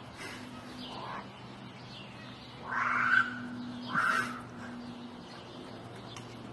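Bird calls: a few short, harsh calls, the two loudest about three and four seconds in, over a faint steady low hum.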